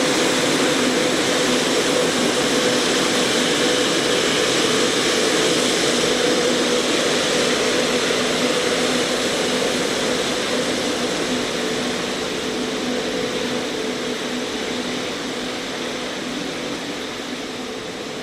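Airbus A350-941's Rolls-Royce Trent XWB jet engines running, a steady noise with a low hum in it, slowly fading over the second half as the aircraft draws away.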